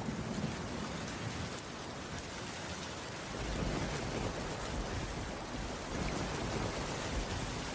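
Steady rainfall, a continuous even hiss of drops, with a low rumble of thunder underneath that eases off and then builds again about halfway through.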